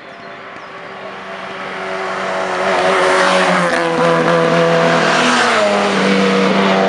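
Hillclimb race car engine at full throttle, growing louder over about three seconds as the car approaches, then staying loud as it passes close. Its engine note steps and bends near the end.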